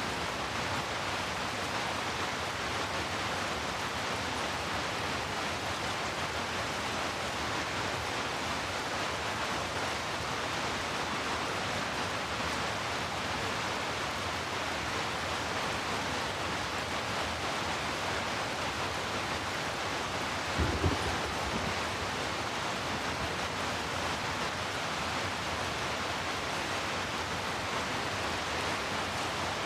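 Heavy rain falling steadily. A brief low thump comes about two-thirds of the way through.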